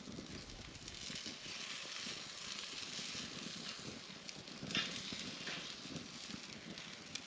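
Wood campfire burning with a steady hiss and scattered crackles, a few sharper pops about five seconds in.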